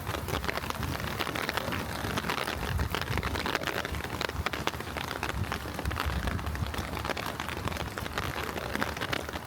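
Steady light rain pattering, thick with small drop ticks, over an uneven low rumble.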